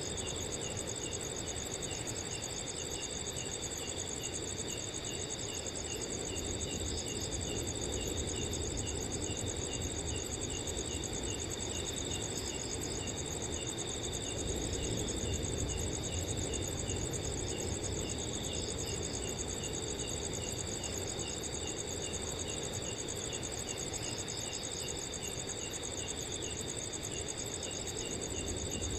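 Several crickets calling together at different pitches: continuous high trills layered with a steady run of short, evenly repeated chirps. Underneath runs a low, even wind noise.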